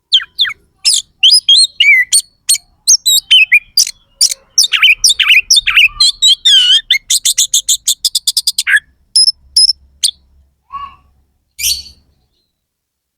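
Oriental magpie-robin (kacer) singing a loud, fast, varied song of whistles, sweeping notes and harsh notes, with a quick run of repeated notes, about eight a second, roughly two-thirds of the way through. The song then thins to a few scattered notes and stops shortly before the end.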